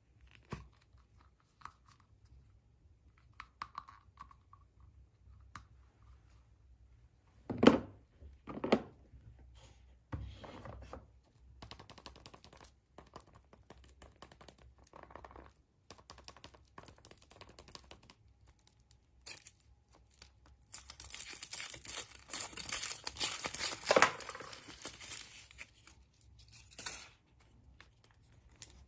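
Wrapping being handled and torn open, with scattered clicks, a couple of sharper knocks about eight seconds in, and a long stretch of loud tearing and crinkling in the second half.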